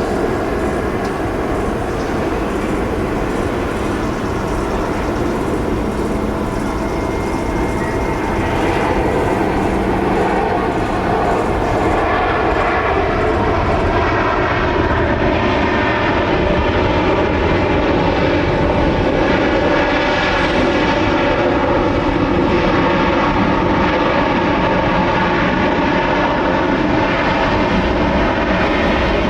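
Jet airliner engines running loudly and steadily, with several whining tones that slowly fall in pitch through the second half as the aircraft passes.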